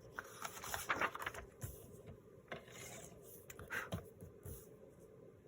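Paper pages being handled and rubbed, with a run of short scrapes and light taps that thin out near the end.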